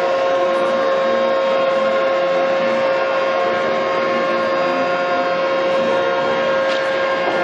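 A steady machine hum with a strong constant tone and several higher tones above it, unchanging in level and pitch.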